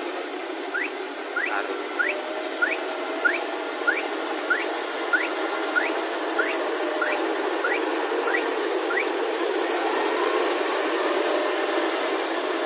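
Kubota rice combine harvester running steadily. Over it comes a run of about fourteen short rising chirps, roughly one and a half a second, which stop about nine seconds in.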